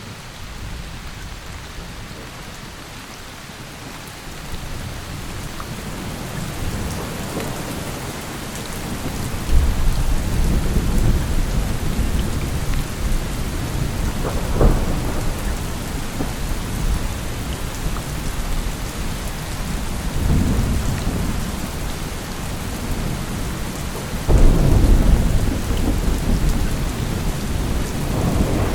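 Steady rain with rolling thunder. The rain builds over the first few seconds, and deep rumbles break in sharply about a third of the way through and again near the end, with a sharper crack in between.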